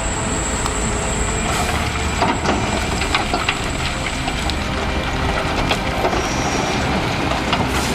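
Heavy machinery running, with a string of sharp cracks and crunches through the middle few seconds, like wood or debris breaking.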